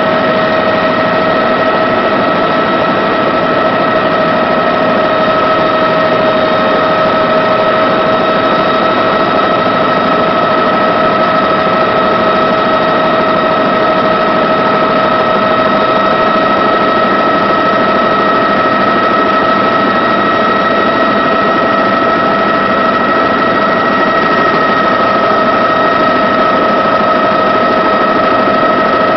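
Helicopter in flight heard from on board: a loud, steady engine and rotor drone with a constant whine on top.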